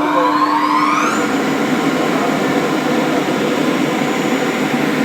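An engine or motor speeding up, its pitch rising over about the first second, then running steadily at high speed with a dense rushing noise.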